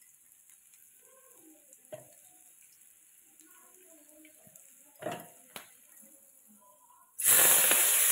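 A few faint knocks, then about seven seconds in a sudden loud sizzling as chopped greens fry in hot oil in a wok.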